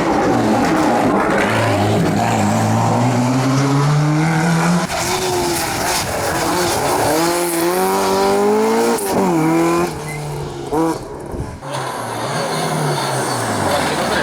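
Historic rally car engine under hard acceleration, its pitch climbing steadily for several seconds. It then changes gear, with the revs rising and falling sharply several times. Near the end it drops briefly and comes back on the throttle.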